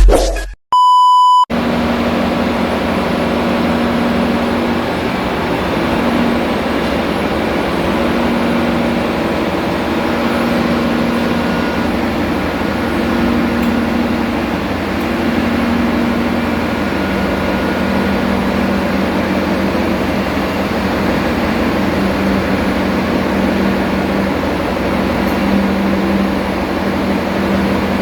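A short beep tone about a second in, then the steady drone of engine-room machinery, with a low hum that drops slightly in pitch about two-thirds of the way through.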